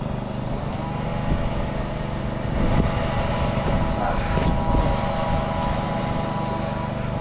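An engine running steadily, a continuous low hum with a few faint knocks over it.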